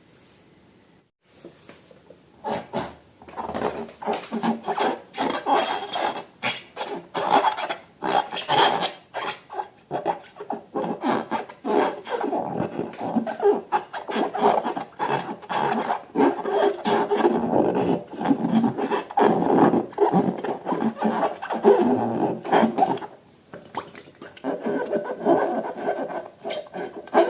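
Slime being worked by hand: a fast, irregular run of rubbing and scraping strokes. The strokes begin about two seconds in and ease off briefly near the end before starting again.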